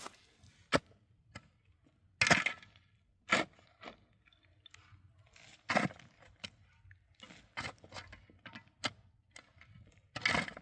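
A digging tool striking packed snow and rock in irregular crunching blows, about six heavy strikes one to three seconds apart with lighter knocks and scrapes between.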